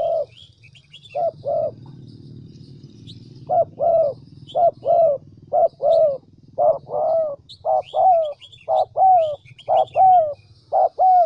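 Spotted dove cooing: a long series of short, low coo notes, many in quick pairs, with a pause after the first couple of seconds and then coming thicker towards the end. It is the decoy male's call used to lure wild doves to a trap. Faint chirps of small birds sound above it.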